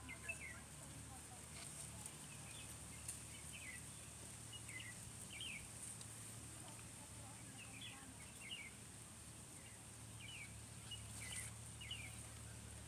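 Faint outdoor background with short bird chirps coming in small clusters every second or two, over a steady faint high hiss.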